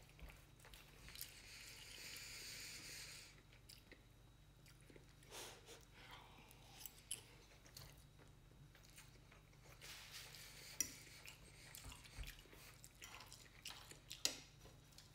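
Faint chewing of food, with light clicks and scrapes of a metal fork against a plate. A soft hiss a couple of seconds in, and a few sharper clicks later on.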